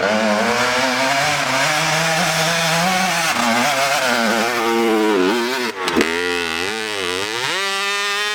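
Dirt bike engine running and being revved: a fairly steady drone at first, then several throttle blips in the second half and a rising rev near the end.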